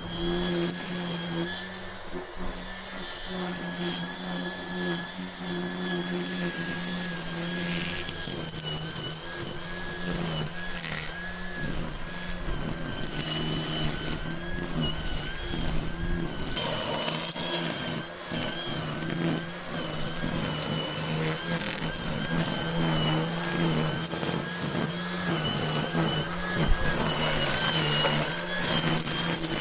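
A motor running steadily for the whole stretch, with a constant low hum and a faint high whine that wavers slowly in pitch.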